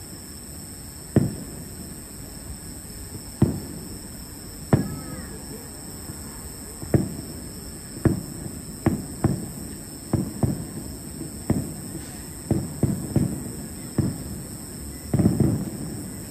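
Aerial fireworks shells bursting, heard from afar as about fifteen booms with short rumbling tails. The booms come at irregular intervals and quicken in the second half. Near the end several bursts run together into a longer rumble.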